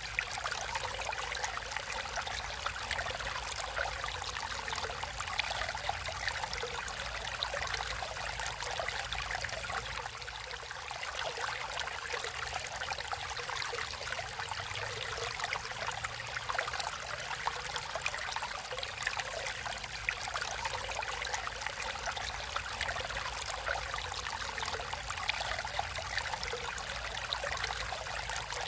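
Water running and trickling steadily, as in a stream.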